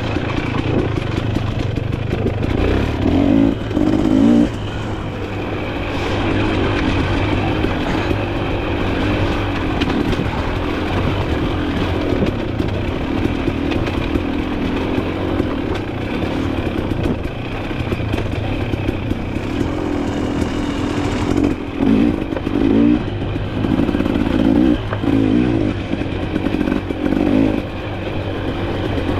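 Dirt bike engine running continuously on a trail ride, the throttle opening and closing so the revs rise and fall, with a couple of brief drops as the throttle is rolled off, and clatter from the bike over rough ground.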